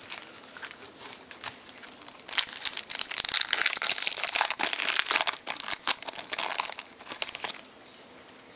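Crinkling and tearing of a trading card pack's wrapper being opened by hand, a dense crackle that starts about two seconds in and stops near the end.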